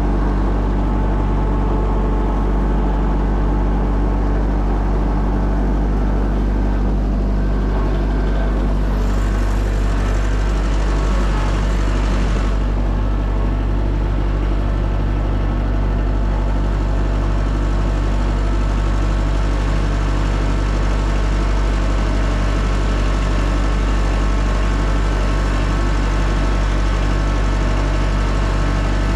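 An engine running steadily at a constant speed, with a brief rush of hissing noise laid over it about nine to twelve seconds in.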